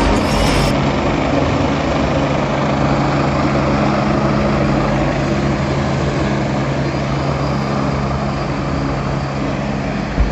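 Motorcycle engine running at a steady speed with a constant low hum, under a thick rushing noise.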